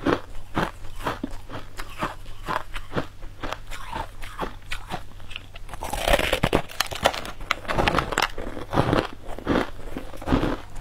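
Biting and chewing into purple crystal-crusted cubes: a steady run of crisp crunches, about two or three a second, with a louder bite about six seconds in.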